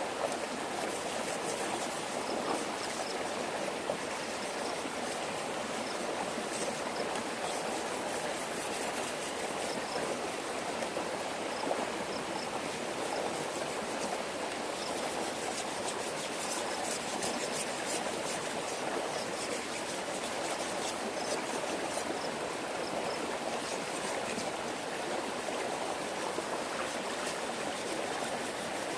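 Flowing stream water running steadily.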